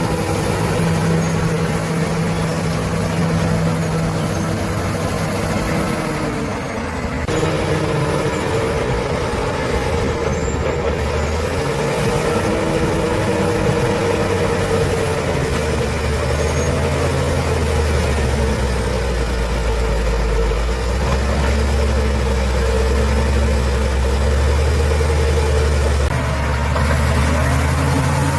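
Heavy diesel engine of a bulldozer running steadily, its pitch and load shifting as it works, with an abrupt change in the sound about seven seconds in and a deeper rumble in the second half.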